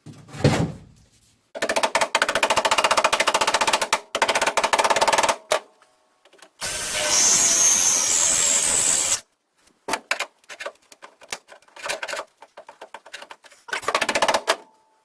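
Drill running a large spot weld cutter bit into the sheet steel of a 1973 Mustang's seat pan, chattering rapidly in two bursts. A steadier hissing run with a high whine follows, then scattered clicks and taps. The bit is cutting through the spot welds.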